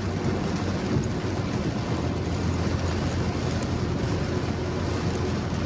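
Car driving on wet roads in heavy rain: a steady low engine hum under even road and rain noise.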